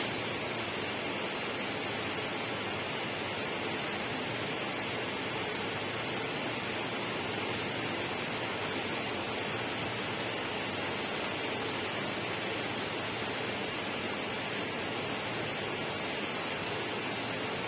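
Steady, even water noise, an unbroken hiss and rush with no separate drops or splashes standing out and no change in level.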